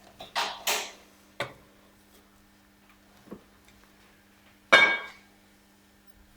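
Metal tools and parts clinking as they are handled: two quick clinks near the start, a lighter one after, and a louder clank with a short metallic ring about three-quarters through.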